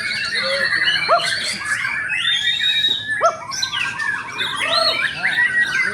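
White-rumped shama singing a loud, varied song without a break: clear whistles mixed with quick rising-and-falling notes and fast chattering phrases.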